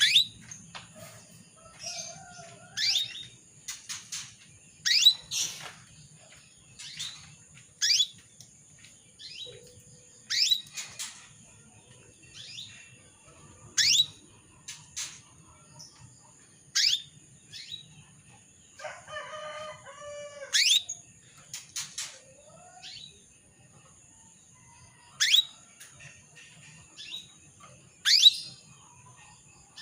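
Female canary in breeding condition calling for a male: short, sharp rising chirps repeated every one to three seconds, with one lower, buzzier call about two-thirds of the way through. A faint steady high whine runs underneath.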